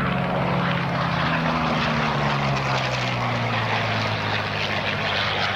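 Curtiss P-40 fighter's V-12 piston engine running at power as the aircraft passes, its drone falling steadily in pitch.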